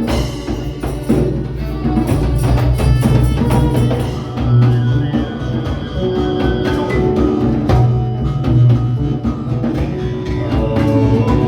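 Live ethno-folk jam: drums and wood-block-like percussion struck over a steady low drone, with pitched instruments playing on top.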